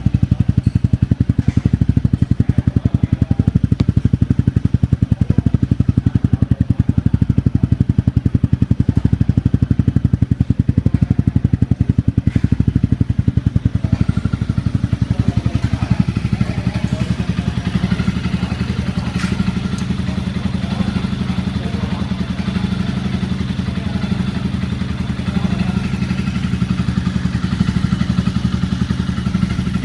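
Honda CRF250's single-cylinder four-stroke engine running steadily through an FMF Q4 exhaust, a deep, even run of firing pulses with no revving. The tone shifts slightly about halfway through.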